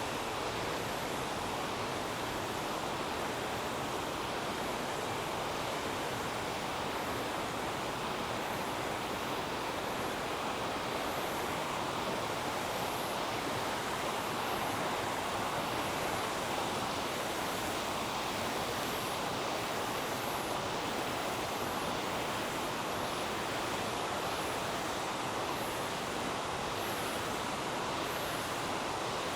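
River water rushing steadily over rocks, an even, unbroken sound, with faint high chirps repeating about once a second above it.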